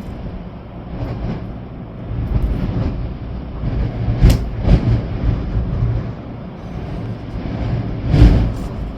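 Storm-force wind gusting and buffeting the microphone with a deep rumble, rising and falling, with the strongest gusts about four seconds in and near the end.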